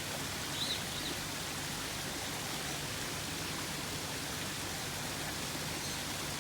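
A steady, even hiss of rushing noise, with two short high bird chirps about a second in.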